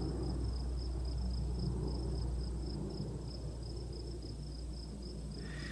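Low drone of a large aircraft circling overhead, slowly fading, over crickets chirping in a steady pulsing trill.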